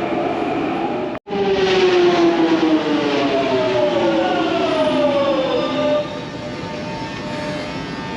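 London Underground Jubilee line train's traction motors whining, the pitch falling steadily as the train slows to a stop, then settling to a steady hum from about six seconds in once it has stopped. A brief cut in the sound about a second in.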